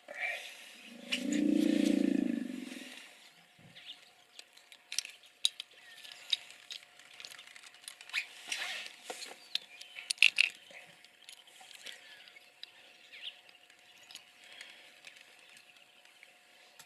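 A hippopotamus calls once about a second in, a single deep, drawn-out grunt lasting about two seconds. Scattered short clicks and chirps follow.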